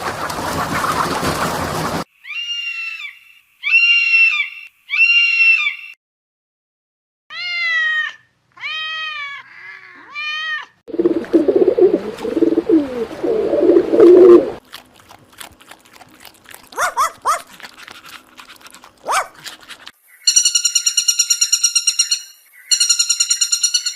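A string of different animal calls cut one after another. First come three arched cries, then four more, then a low rough growling stretch, then scattered clicks. A fast repeated high-pitched call comes near the end.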